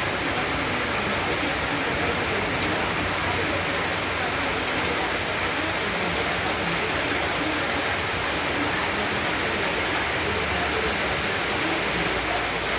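Heavy tropical downpour: a steady, dense rush of rain falling and water running off.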